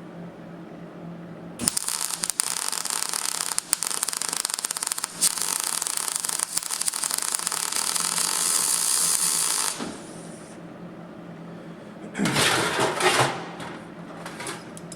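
MIG welder arc crackling steadily for about eight seconds as a weld is run on sheet steel, starting a couple of seconds in and cutting off sharply. About a second later there is a brief clatter of metal being handled.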